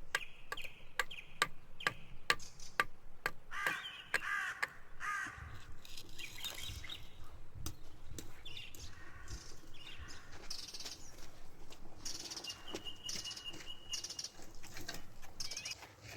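Sharp chopping strokes, about two a second, for the first few seconds, then crows cawing and other birds calling on and off.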